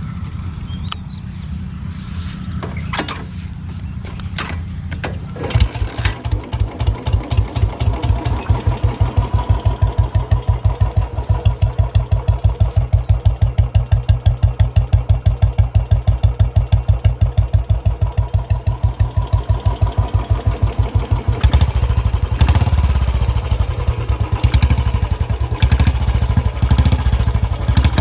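Royal Enfield Bullet single-cylinder motorcycle engine. After a steady low hum and a few clicks, it comes in loud about five and a half seconds in with a slow, even thump-thump idle beat. About 21 seconds in, the beat turns faster and denser as the engine is revved up.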